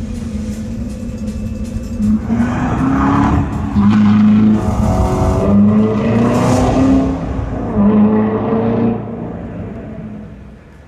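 Car engine sound from a reveal film, played through a hall's loudspeakers: the engine revs hard in several rising runs, like shifting up through the gears, then fades out near the end.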